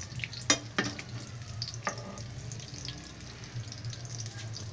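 Breaded chicken patties sizzling as they shallow-fry in oil in a pan. A few sharp clicks of the spatula against the pan in the first two seconds as the patties are turned.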